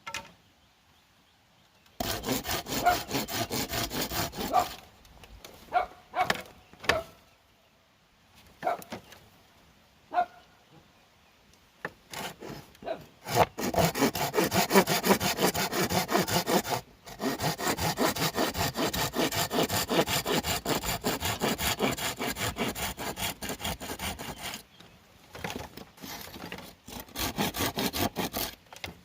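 Saw cutting bamboo in several long spells of quick, even strokes, with a few single knocks in the pause between them.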